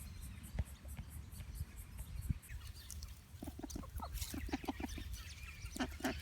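An Australasian swamphen near its chick gives a series of short, low clucking calls in three quick groups, starting about three seconds in, over a steady low rumble.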